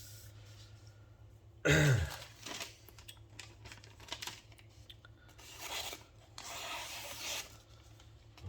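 Rubbing and scraping from working a gyuto knife on a sharpening stone, in several separate strokes of a second or so, with a single loud knock about two seconds in.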